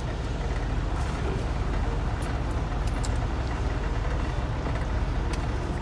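Steady low rumble of a semi-truck's diesel engine running, with a few faint clicks.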